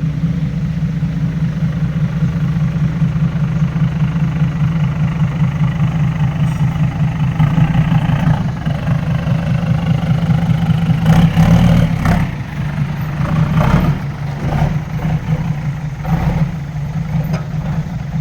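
A heavy truck's diesel engine running steadily, then pulling under load with the revs rising in the middle. A higher whine climbs in pitch as it works harder.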